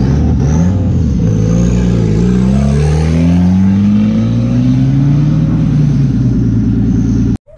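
Car engines running loudly: one idling close by while a Datsun 510 pulls away and accelerates down the street, its engine note rising in pitch. The sound cuts off suddenly near the end.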